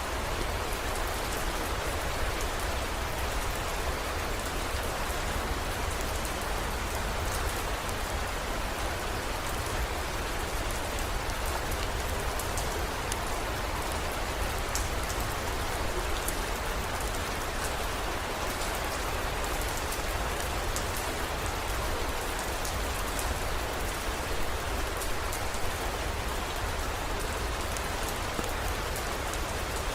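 Steady heavy rain, with scattered sharp drop ticks and a constant low rumble underneath.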